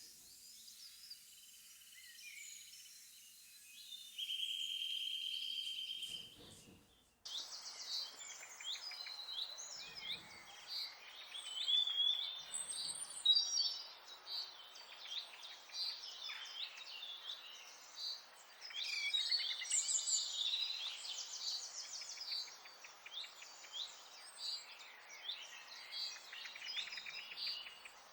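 Background nature recording of many small songbirds chirping and trilling over a faint hiss. About seven seconds in, the recording switches abruptly to a denser chorus of calls.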